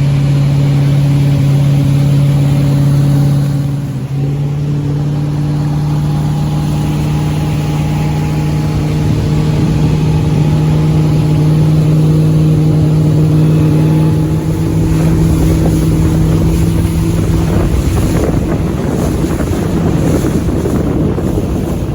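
Motorboat engine running at a steady drone, dipping briefly about four seconds in. In the last few seconds the engine tone fades under the rush of wind on the microphone.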